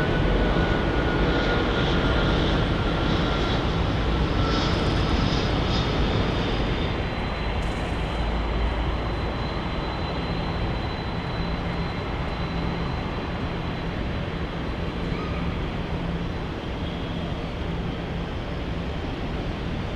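Jet airliner engines passing by, their noise fading gradually. A thin whine slides slowly down in pitch over the first few seconds.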